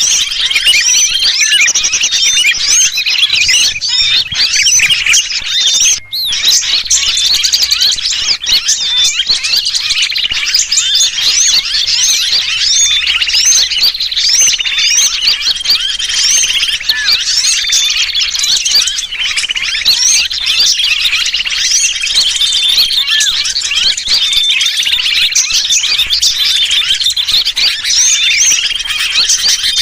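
Dense, continuous chorus of small birds chirping noisily, mixed with the distress calls of a trapped sooty-headed bulbul. Many quick overlapping chirps and short whistles, with a brief break about six seconds in.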